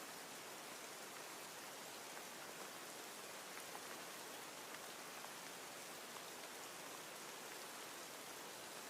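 Steady, quiet rain, an even hiss with scattered drops ticking.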